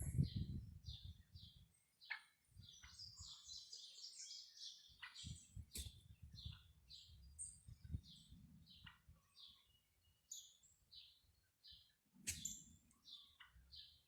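Faint bird chirping: many short high chirps in quick succession, with brief stretches of low rumbling noise at the start and again near the end.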